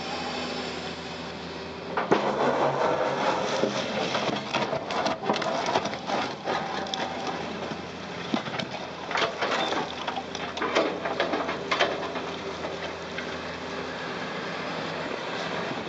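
CAT 330C crawler excavator's diesel engine running steadily. From about two seconds in, broken concrete clatters and crashes into a tipper truck's steel body for about ten seconds, then settles back to the engine alone.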